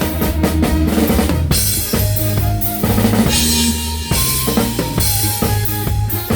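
A live band playing a song at rehearsal: a drum kit with kick drum, snare and cymbals driving a steady beat over held bass notes and guitar.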